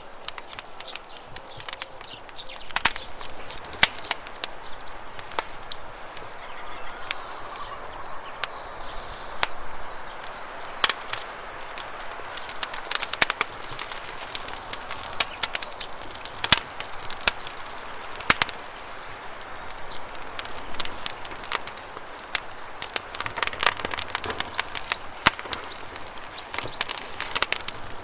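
Campfire crackling, with many sharp pops over the steady rush of flowing river water. A bird chirps in a quick high series about a quarter of the way in and again briefly around the middle.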